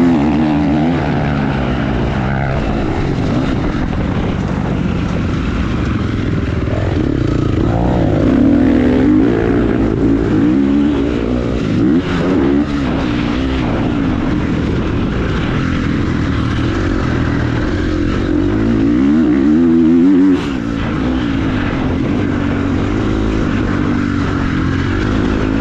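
Motorcycle engine running while being ridden, its pitch rising and falling with the throttle. The sound drops off sharply twice, once about halfway and again a few seconds later.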